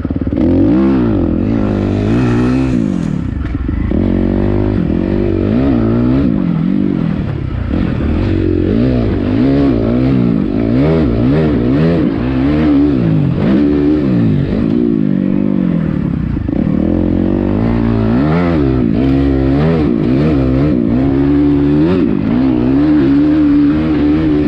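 Suzuki RM-Z250 single-cylinder four-stroke dirt bike engine through a full titanium exhaust, ridden hard: it revs up and drops back over and over, every second or two, as the rider holds and shifts gears.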